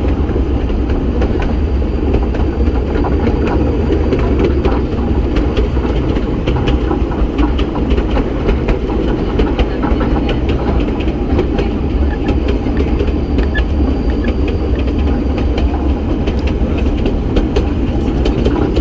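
Kurobe Gorge Railway narrow-gauge train running along the track: a steady low rumble from the moving car, with many sharp irregular clicks and rattles from the wheels on the rails.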